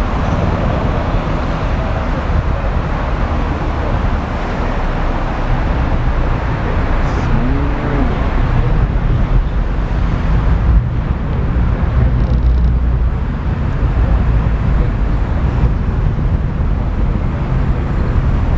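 Bus in motion heard from inside the cabin: steady engine and road rumble.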